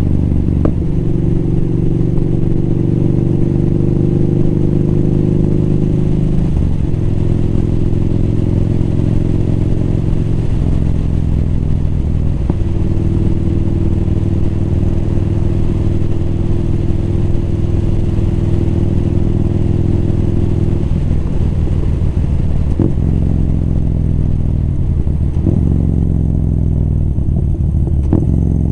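Motorcycle engine running steadily under way, its pitch shifting in steps several times as the throttle and gears change. In the last several seconds the pitch falls and rises again a few times as it slows and shifts.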